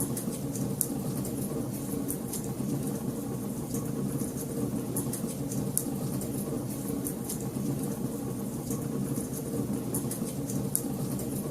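Wood fire burning in a fireplace: a steady low rumble of the flames with many irregular sharp crackles and pops from the burning logs.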